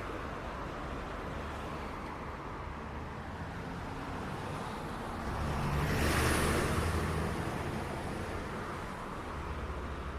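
City street traffic: a steady hum of passing cars, with one vehicle going by close, its tyre and engine noise swelling to its loudest about six seconds in and then fading.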